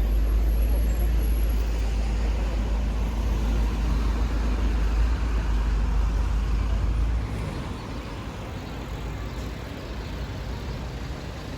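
Steady low rumble with a wash of noise, like a moving vehicle or traffic. The deepest part of the rumble drops out suddenly about seven seconds in, and the lighter noise carries on.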